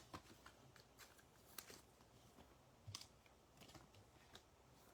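Near silence, with a few faint separate clicks and light rustles of trading cards being handled.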